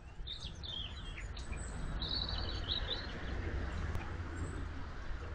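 Small bird chirping in two short runs of quick notes, about a quarter second in and again about two seconds in, over a steady low rumble of water churned by the electric narrowboat's propeller.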